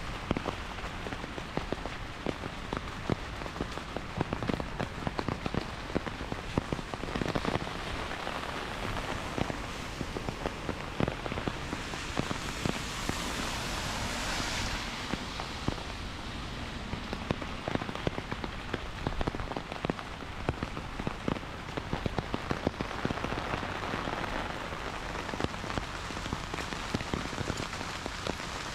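Heavy rain falling steadily, with many sharp drop splats throughout. A louder, higher hiss swells and fades about halfway through.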